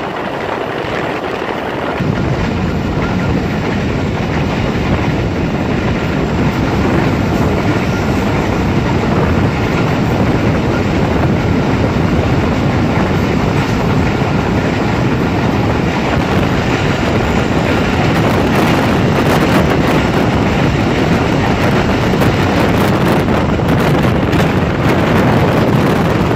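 Passenger train running along the track, heard from on board: a loud, steady rush and rumble that grows louder from about two seconds in.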